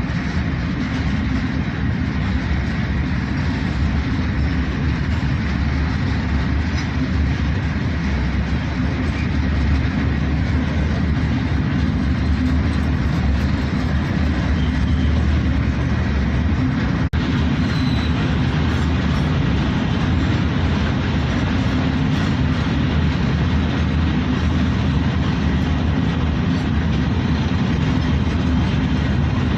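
Loaded coal freight train hauled by a WAG9HC three-phase electric locomotive, running at a steady speed: a continuous heavy rumble of wheels on rail, even throughout, with a momentary drop a little over halfway through.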